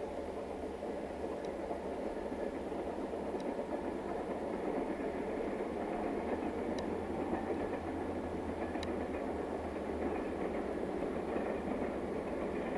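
Distant train approaching: a steady rumble of engine and wheels on the rails that slowly grows louder, with a few faint clicks.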